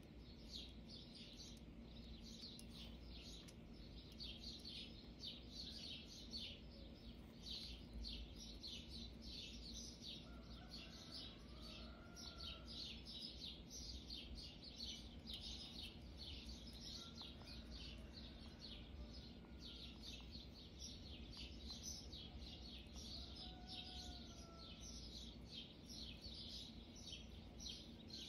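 Faint, rapid high-pitched chirping, like small birds twittering, repeated several times a second throughout, with a few soft gliding whistles about ten, seventeen and twenty-four seconds in.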